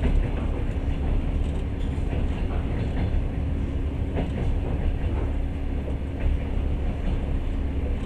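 Passenger train running, heard from inside the carriage: a steady low rumble of the wheels on the rails with a constant hum and occasional faint clicks.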